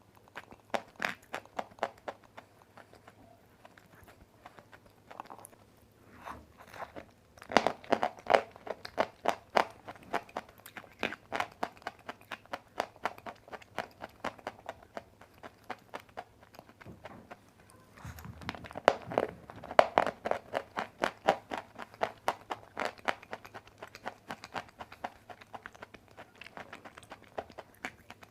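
Close-miked bites and chewing of dry white clay, crisp and crunchy. Two loud bites, about a quarter and two-thirds of the way through, each followed by a run of chewing crunches at about three a second.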